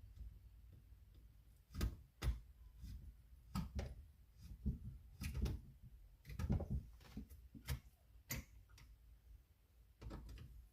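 Irregular clicks and knocks of hand tools and metal chainsaw parts being handled during reassembly of the bar, about a dozen in all, the loudest a pair of knocks about two seconds in.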